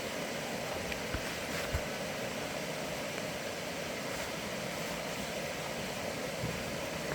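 A vehicle engine running steadily, heard as an even rushing noise, with two faint knocks about one and two seconds in.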